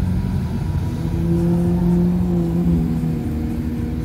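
Ferrari 812 V12 engines running at low revs as the cars roll slowly past, a steady low engine note that steps slightly in pitch a couple of times.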